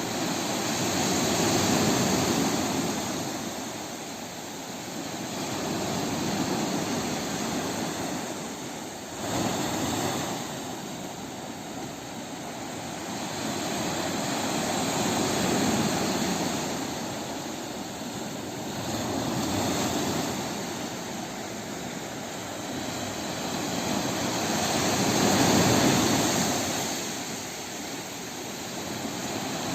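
Sea surf: waves rolling in and washing back, a rushing noise that swells and ebbs about every four to six seconds without stopping.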